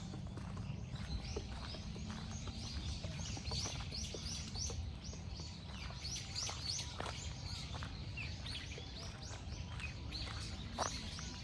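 Many small birds chirping and calling at once, a dense chorus of short high chirps and quick downward-sweeping notes, over a low steady rumble.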